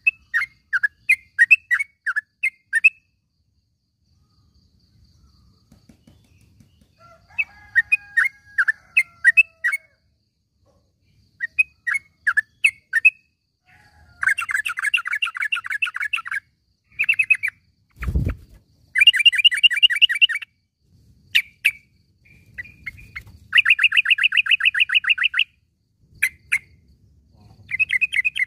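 Yellow-vented bulbul calling in bursts of quick chattering notes broken by short gaps, with several fast rattling trills of a second or two each. A single loud low thump comes about 18 seconds in.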